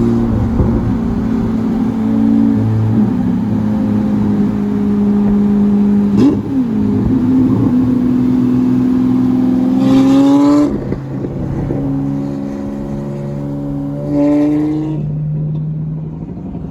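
Sports-car engines running and revving in traffic, the pitch stepping up and down, with a hard rev about ten seconds in and another about fourteen seconds in.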